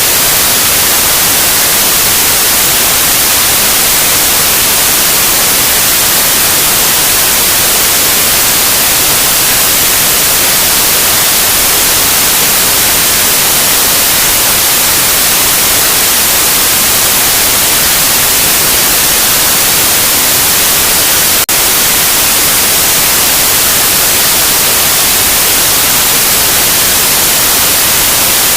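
Loud, steady white noise: an even hiss across the whole range, with one brief tick about three-quarters of the way through.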